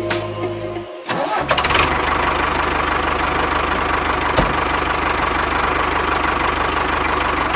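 A small engine starts about a second in and then runs steadily at a fast, even beat.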